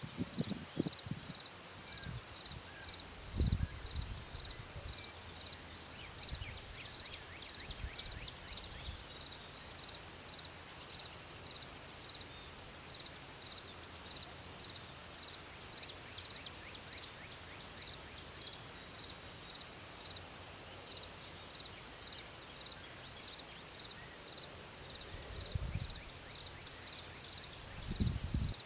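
Crickets chirping steadily in a regular pulse of about two chirps a second, with a few brief low thumps.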